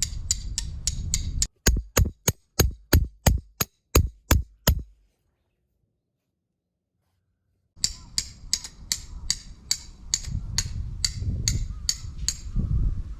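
Tent pegs being driven in with a hammer: quick, even metallic strikes about three a second, in two runs separated by a few seconds of dead silence.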